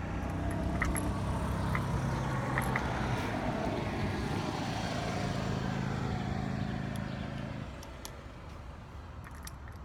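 A motor vehicle engine runs steadily with a low hum, then fades out about three-quarters of the way through. A few faint light clicks sound over it early on.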